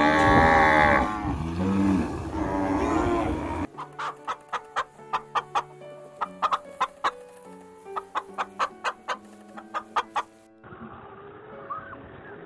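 Chickens calling: a loud, drawn-out call for the first few seconds, then a run of short clucks at about three to four a second. Background music plays underneath, and there is a cut to quieter sound near the end.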